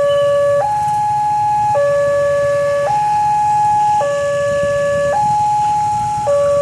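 Railway level-crossing warning alarm sounding a steady two-tone electronic signal, a low tone and a higher tone alternating about once a second, which signals that a train is approaching. A steady low rumble runs underneath.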